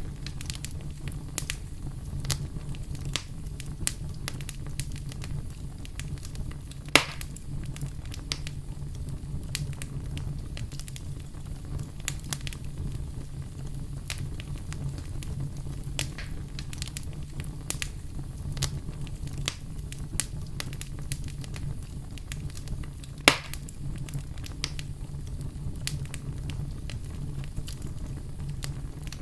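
Wood fire crackling steadily, with a low rumble underneath and scattered sharp pops, two of them louder, about seven seconds in and near the end.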